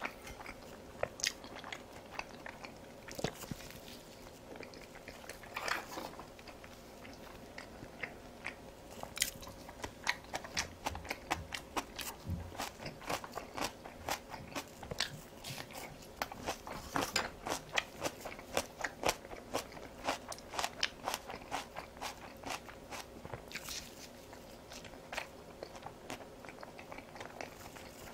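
Close-miked chewing with many sharp, crisp crunches: a person eating battered fried food and kimchi. The crunches come thickest through the middle of the stretch.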